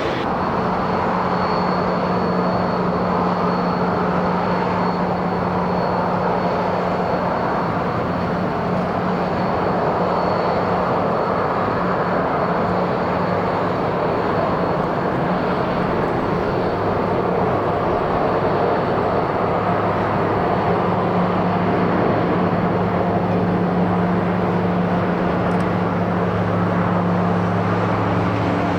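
Jet airliner engines running during a landing, a steady loud roar with a thin high whine that fades out about two-thirds of the way through.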